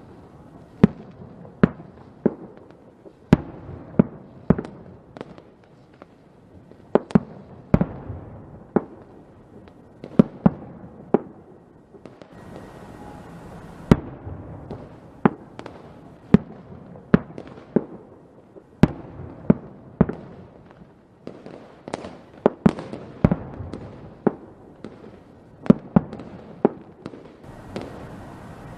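Fireworks exploding, a string of sharp bangs at irregular intervals, about one or two a second, each trailing off with a brief echo over a low continuous crackle.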